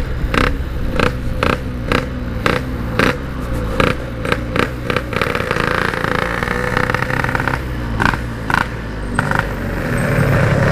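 Yamaha RX-King 135cc single-cylinder two-stroke engine running at low revs, with sharp clicks about twice a second over the first half and a few more near the end.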